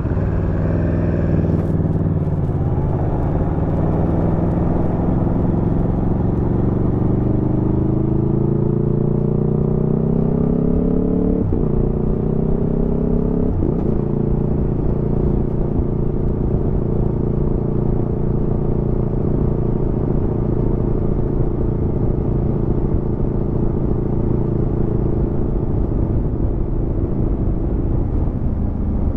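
Aprilia Tuono V4 motorcycle's V4 engine under way. Its pitch climbs slowly as it pulls, breaks twice in quick succession about eleven and thirteen seconds in like gear changes, then holds a steady pitch at a constant cruise.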